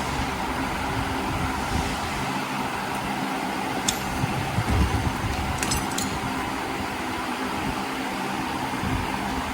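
Steady mechanical hum, with a few sharp clicks about four seconds in and again around six seconds.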